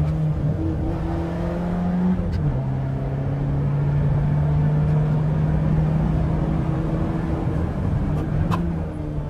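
Peugeot 206's straight-piped four-cylinder engine pulling under load on the road, its note dropping sharply about two seconds in like an upshift, then holding steady and rising again near the end, with a faint click at each change.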